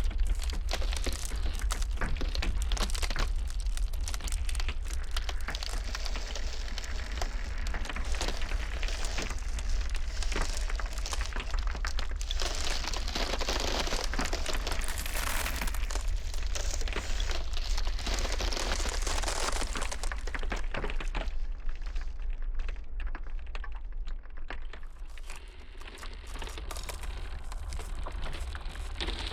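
Ice cracking and crackling in dense, irregular snaps over a steady deep rumble. The crackling thins out for a few seconds about three quarters of the way in.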